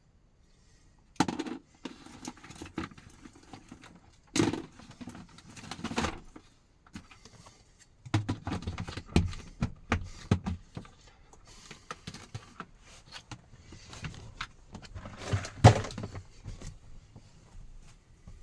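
Irregular knocks, thuds and rustling of things being handled in a small enclosed space, the loudest knocks about a second in, near the middle and near the end.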